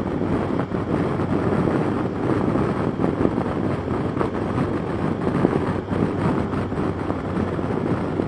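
Steady wind rush and the inline-four engine of a 2006 Yamaha FJR1300A motorcycle cruising at an even pace in heavy rain.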